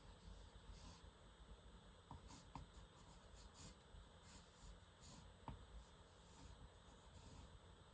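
Faint scratching of a pen on paper in short, irregular strokes as a gesture figure is sketched, with a couple of light ticks.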